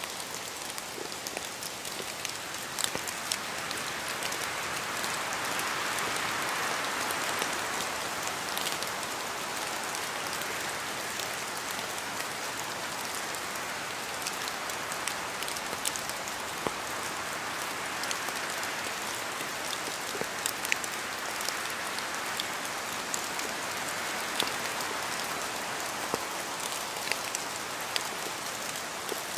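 Steady rain falling, an even patter with many distinct drops striking a surface.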